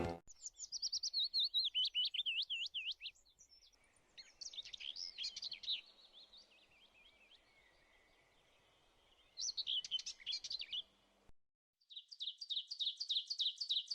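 Songbird singing: warbling, chirping phrases with pauses between them, then a quick run of repeated high notes, about five a second, near the end.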